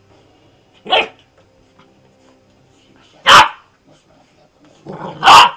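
A dog barking three times, each a single short, loud bark about two seconds apart, the last with a weaker sound just before it.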